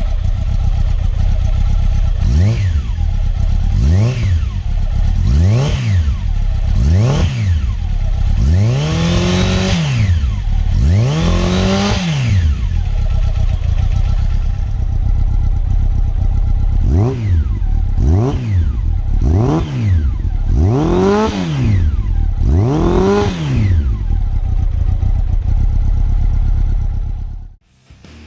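Honda CB750 inline-four through a Moriwaki aftermarket exhaust, idling and being revved in two sets: four short throttle blips, then two longer, higher revs, with idle between the sets. The sound cuts off sharply near the end.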